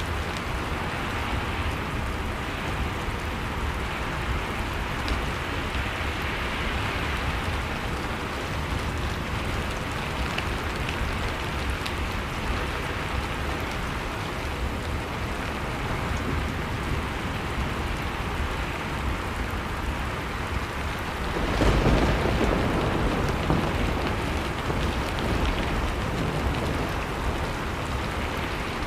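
Blizzard and fireplace ambience: a steady rush of storm wind with sparse faint crackles from a log fire. About twenty-one seconds in, a loud deep rumbling surge swells up and fades away over several seconds.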